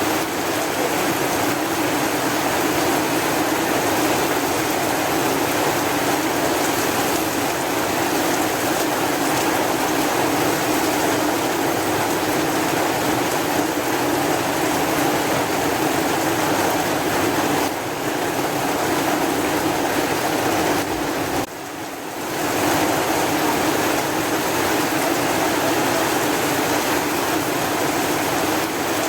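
Heavy rain falling, a steady dense hiss, which dips briefly about 21 seconds in before coming back at full strength.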